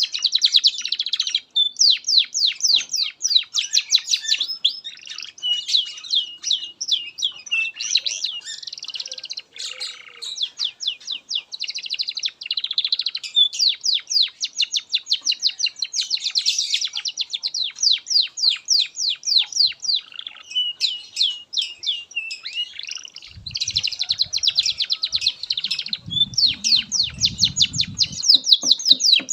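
Domestic canary singing a long, continuous high-pitched song of rapid trills and rolls with only brief breaks. A low rumble runs under the song for a few seconds near the end.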